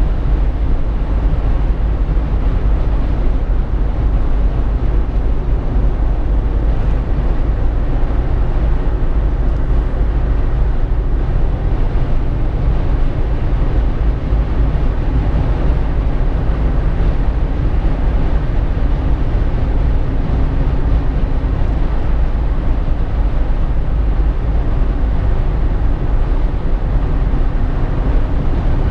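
Steady driving noise inside a Jeep Wrangler JK's cabin: a constant low rumble of tyres, engine and drivetrain with a faint hum over it.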